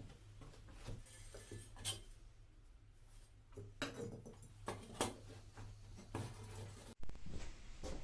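Scattered light knocks and clinks of objects being handled, a handful of separate strikes, over a steady low hum. The sound changes abruptly about seven seconds in.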